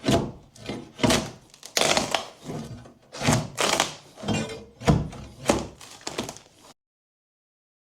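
Demolition blows on old wooden flooring of luan board over tongue-and-groove boards: about ten heavy wooden thuds in a loose rhythm, stopping abruptly near the end.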